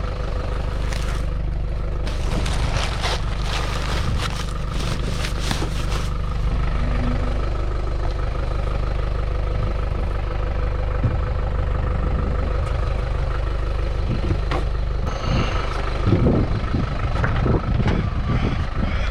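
Vehicle driving: a steady low engine and road drone with a faint steady hum above it. Scattered clicks and knocks come in the first few seconds and again near the end.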